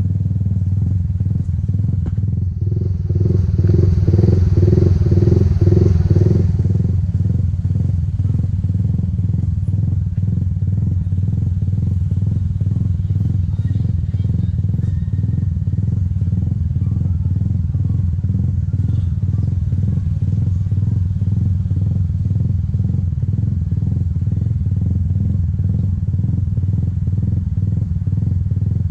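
Motorcycle engine running steadily while riding, with road noise. For a few seconds, starting about three seconds in, a louder pulsing engine sound passes.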